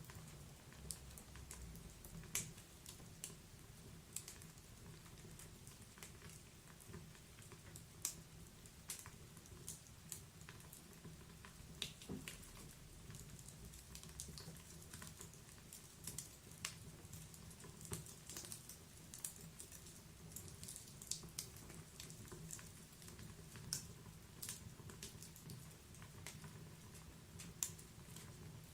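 Wood fire in a fireplace crackling, with irregular sharp pops and snaps over a soft low rumble.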